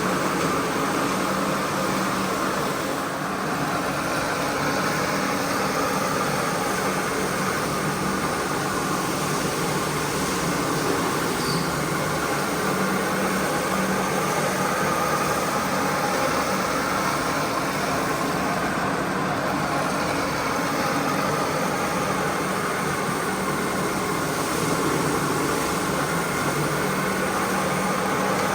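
Carpet-cleaning machinery running steadily: an even motor noise with a constant low hum and no change in pitch or level.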